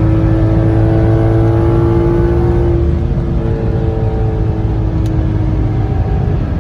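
Audi S6's 4.2-litre naturally aspirated V8 running loud through catless, straight-piped 3-inch true dual exhaust with a Magnaflow muffler, under load. Its pitch climbs slowly for a couple of seconds, then changes about halfway through.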